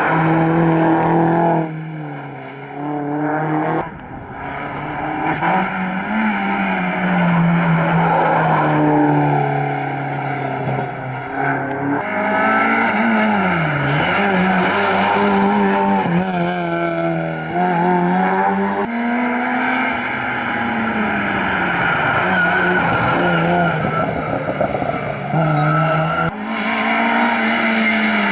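Rally cars driven hard on a stage, their engines revving high and dropping back again and again through gear changes and braking, with some tyre squeal. The sound jumps abruptly several times from one car to another.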